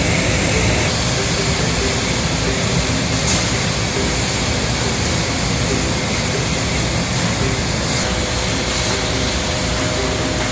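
Sheet-metal deburring machine running, its rotating brushes scrubbing burrs off steel parts fed through on rollers: a loud, steady rushing noise.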